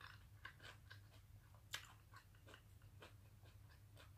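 Faint close-up chewing of a mouthful of food: soft mouth clicks and smacks about two or three times a second, the loudest a little under two seconds in.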